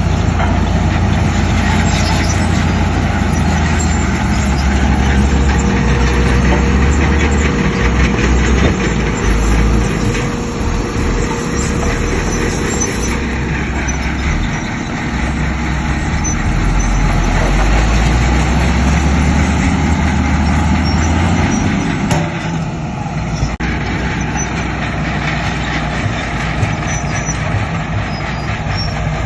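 Diesel engines of a Shantui bulldozer and dump trucks working, a loud continuous low rumble that rises and falls with the load and eases off a little near the end.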